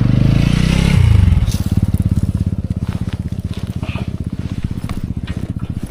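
Motorcycle engine running, its revs falling over the first second or so, then settling into a steady low-revving run with even firing pulses.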